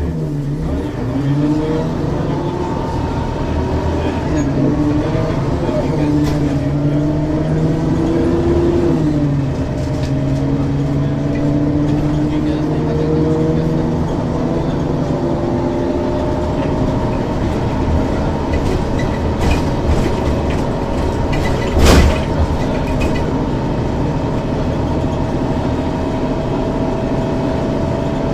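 Ikarus 435 articulated bus's diesel engine pulling away through its ZF gearbox: the engine note rises for several seconds, drops at an upshift about nine seconds in, rises again and then settles into a steady, slowly climbing note. A single sharp thump about 22 seconds in.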